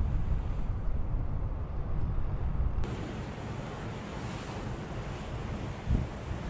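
Blizzard wind gusting and buffeting the microphone, a steady low rumble with a rushing hiss above it that grows brighter about three seconds in.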